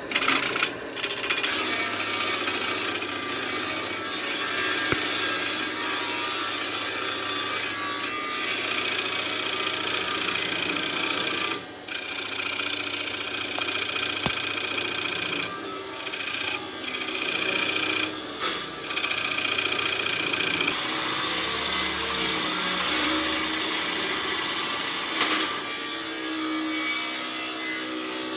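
A power tool working wood, running steadily with a few brief stops about midway through.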